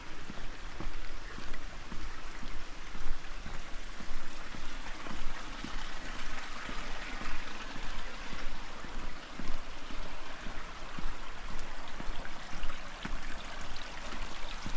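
Steady rush of running water, with rain falling; the rush swells in the middle.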